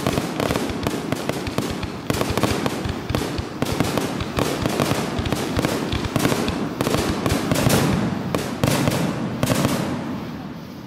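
Fireworks display: a rapid barrage of aerial shell bursts, sharp bangs coming close on one another, thinning out and getting quieter near the end.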